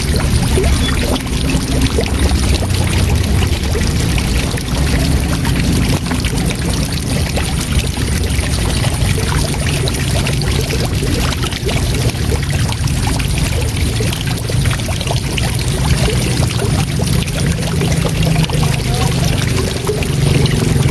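Waterfall: a steady, loud rush of falling water, strongest in the low rumble.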